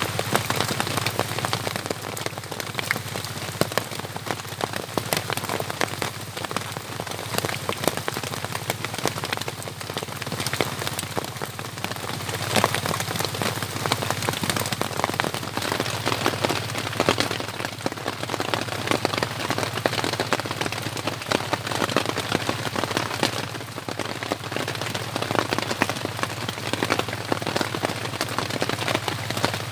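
Steady rain falling on a plastic tarp shelter overhead and the ground around it, a dense hiss of many separate drop hits.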